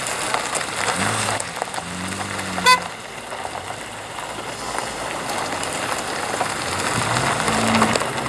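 Classic cars driving past, their engines rising and falling in pitch, with one short, sharp horn toot about two and a half seconds in.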